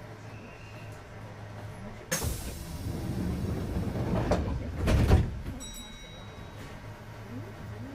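Kintetsu 2430-series train's sliding doors closing at a station stop: a sudden burst of air hiss and door noise about two seconds in, lasting about three seconds and loudest near the end where the doors shut. A steady low hum from the stationary train runs underneath.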